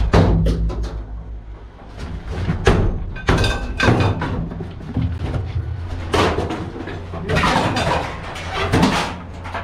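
Scrap items being handled and dropped, giving a run of knocks, thuds and clatter over a steady low engine hum.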